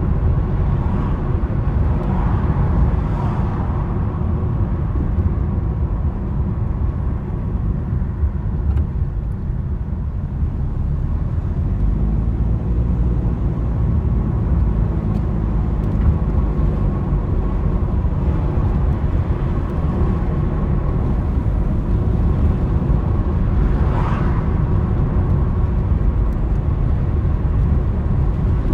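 A car driving: steady low road and engine rumble, with two brief swells of hiss, one a few seconds in and one near the end.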